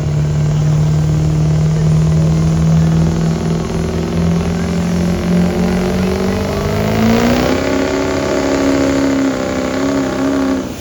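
Pickup truck engine running hard under load while pulling the sled, holding a steady note, then its pitch climbs about seven seconds in and stays high.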